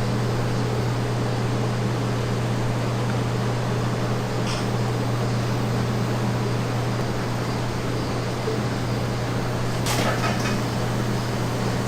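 Steady low hum of a running motor or fan, with a few light clicks about four and a half and ten seconds in.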